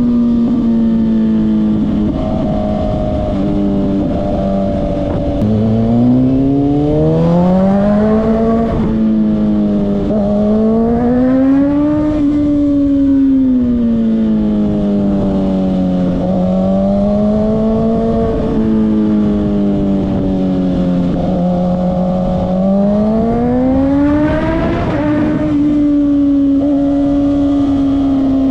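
Kawasaki ZX-6R sport bike's inline-four engine running under throttle, its pitch rising and falling several times, then holding at a higher note near the end.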